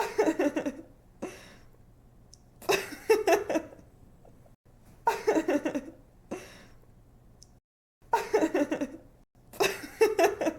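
A young woman laughing in five short bursts of quick, pulsed "ha-ha" laughter, the same laugh recurring every few seconds as a loop.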